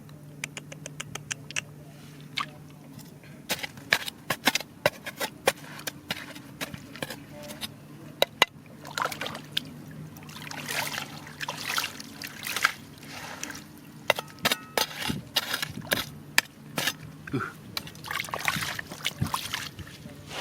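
Water sloshing and trickling, with many sharp clicks of stones and gravel knocking together as they are worked in the water, over a steady low hum.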